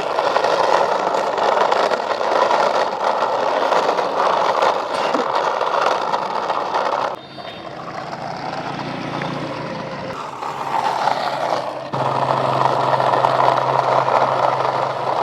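Plastic wheels of a six-wheeled toy cattle truck rolling and rattling over a hard surface as it is pushed along by hand. The rolling drops off about seven seconds in and picks up again about twelve seconds in. A steady low hum joins in the second half.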